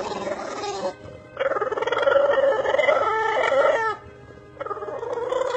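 A dog's drawn-out, wavering vocal calls: a short one at the start, a long one of about two and a half seconds in the middle, and another beginning near the end.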